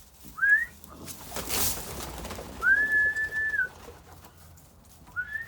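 Whistling to call the birds at feeding time: a short rising note, then a long steady note of about a second, then a shorter note at the end. A brief rustle comes between the first two notes.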